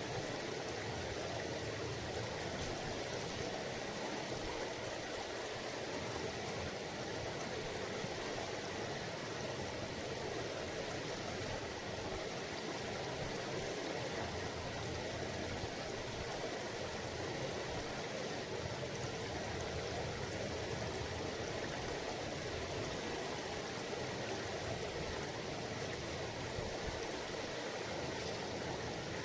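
Mountain river babbling over rocks: a steady, unbroken rush of flowing water.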